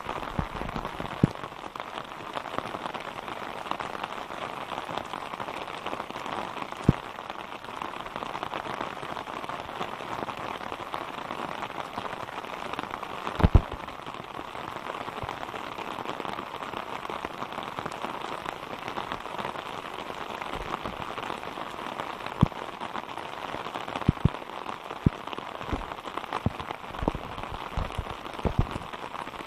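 Rain falling on puddled, waterlogged ground, a steady hiss of drops on water. Sharp taps close to the microphone break in now and then, most of them in the last few seconds.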